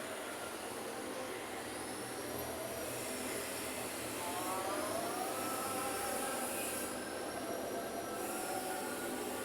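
Heavy bus passing in traffic: a steady road rumble, with an engine and drivetrain whine that rises about four seconds in, then holds and wavers as it goes by.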